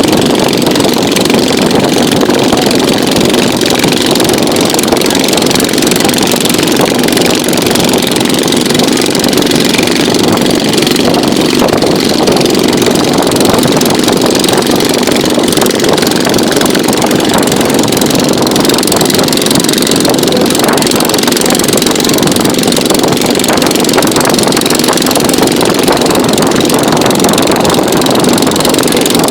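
A boat engine running steadily at a constant speed, loud and unchanging throughout.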